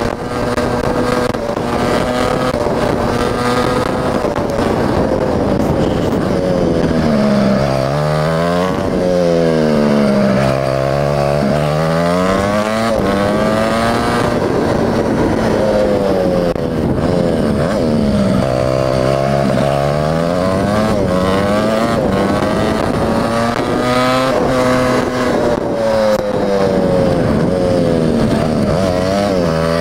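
Mini bike's small engine running under way. Its pitch drops twice and climbs back as the throttle is eased and opened again.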